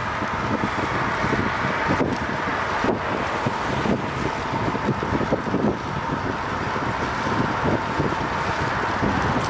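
Steady rush of road noise with traffic and wind on the microphone, heard while riding along a street.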